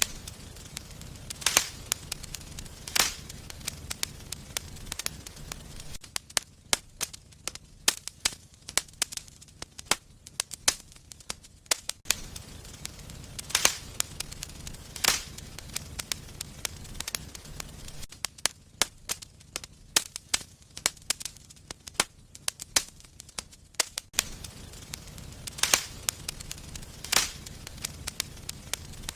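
Wood fire burning in a fireplace: irregular crackling with sharp pops from the burning logs, a few of them much louder, over a low rumble of the flames.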